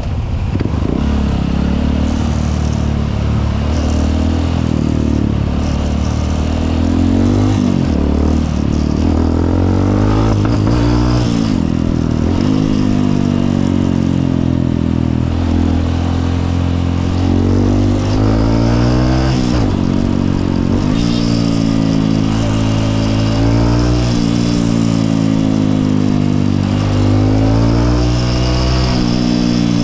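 Honda CRF150L's single-cylinder four-stroke engine running under way, its pitch climbing and falling back several times as the rider speeds up and eases off through the gears.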